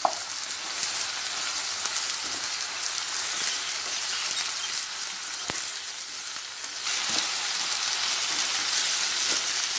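Chopped onion, tomato, curry leaves and coriander sizzling steadily in hot oil in a nonstick pan while a wooden spatula stirs them, with one sharp tap about five and a half seconds in.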